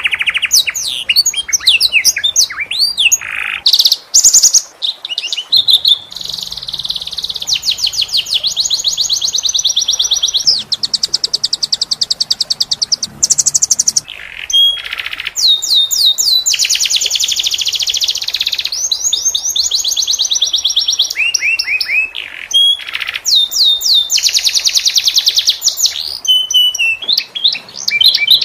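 Domestic canary singing a continuous song. It is made of long, fast rolling trills of rapidly repeated high notes, several seconds each, broken up by quick whistled glides and short pauses.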